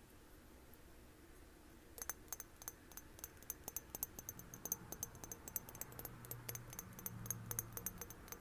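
Fingernails tapping quickly and irregularly on glass, sharp little clicks with a bright high ring, several a second, starting about two seconds in after a short quiet.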